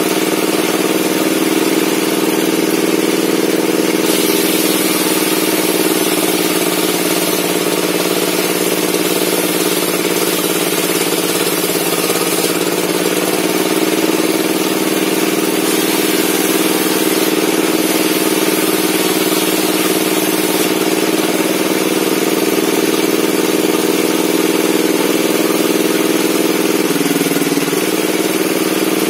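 Bench circular saw running steadily with a low, even hum, and stretches of added hiss as the blade works through log wood. The pitch dips briefly near the end.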